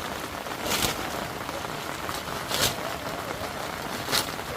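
Heavy rain falling steadily, with three short, sharp strikes at even intervals, about one every second and a half to two seconds.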